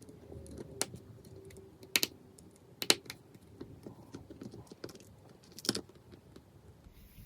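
Small clicks and taps of an iPhone 5s and its screen being handled as the screen is connected for a test. There are four sharper clicks, about a second apart at first and one more near the end, among lighter ticks.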